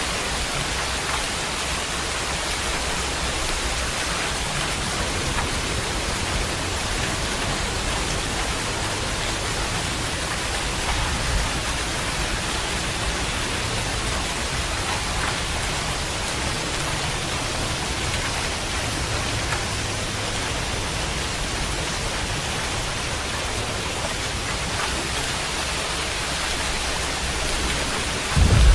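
Steady heavy rain falling, an even hiss with no let-up. At the very end a loud low rumble of thunder breaks in.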